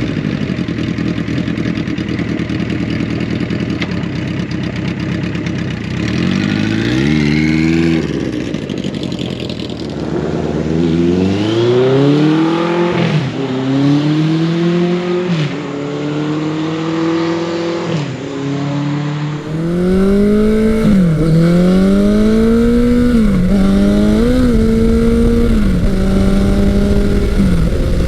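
Big-bore motorcycle engine idling, then accelerating hard. Its note rises and drops back sharply several times as it shifts up through the gears, and it settles to a steadier drone near the end.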